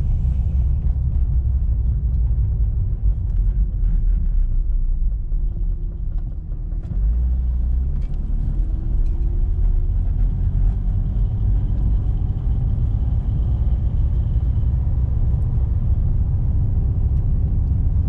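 Jeep Cherokee XJ's 4.0-litre inline-six and drivetrain heard inside the cabin as it stops, idles briefly about six seconds in, then pulls away with the engine rising in pitch. The warmed-up AW4 automatic is slow and unresponsive on its first-to-second shift, which the owner puts down to burned-out clutch packs.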